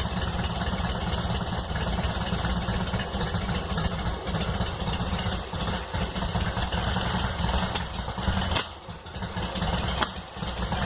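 Volkswagen Beetle air-cooled flat-four engine running loud and rough, with a brief dip about eight and a half seconds in and a couple of sharp pops after it. It is running on a wrong mixture while the carburettor is being adjusted.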